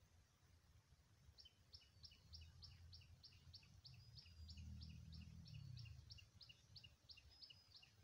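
Faint bird song: a quick, even series of about twenty short high chirps, roughly three a second, starting a second or so in, over a low rumble.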